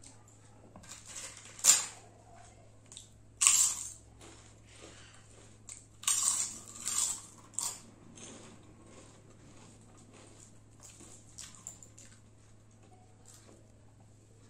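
Close-up eating sounds: a person biting and chewing crunchy food, with loud crunches at about 2 s and 3.5 s and a cluster between 6 and 7.5 s, then softer chewing.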